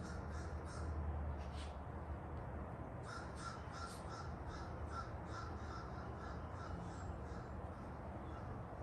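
A bird calling in two quick series of repeated short calls, about three a second, the first ending just after the start and the second running from about three seconds in to past the middle.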